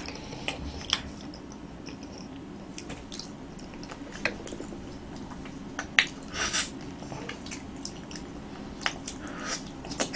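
Close-miked chewing of soft roasted sweet potato, with small wet mouth clicks and smacks scattered throughout. About six seconds in, the soft flesh is pulled apart by hand.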